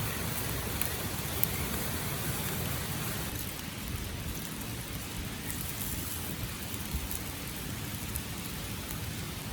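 Meat sizzling on a grill over a campfire: a steady hiss with faint scattered crackles.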